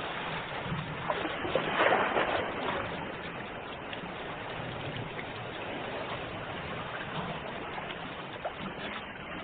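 Ocean surf washing continuously, with one louder wave breaking about two seconds in before settling back to a steady wash.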